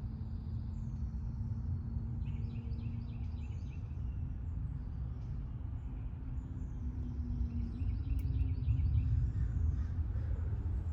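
Songbirds chirping in short repeated phrases, twice in clusters, over a steady low rumble and a faint steady hum.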